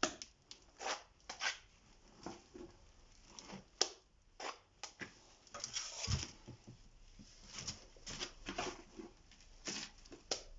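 A trowel or spatula scooping thick gypsum plaster and throwing and scraping it onto a wall in a mound, giving irregular short scrapes, slaps and taps of metal on wet plaster.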